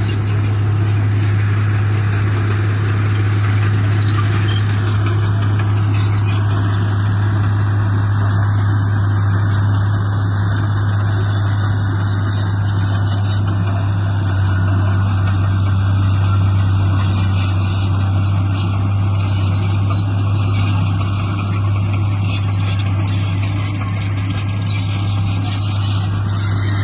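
Diesel engine of heavy earthmoving equipment running steadily, a constant low hum with no pauses.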